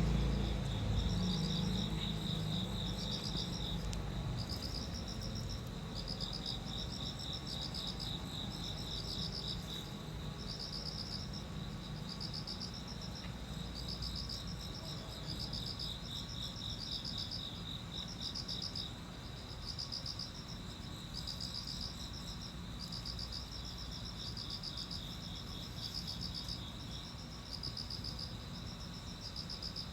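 Insects, likely crickets, chirping in steady repeating pulsed trains: two overlapping callers at slightly different high pitches, over a low background rumble that fades over the first few seconds.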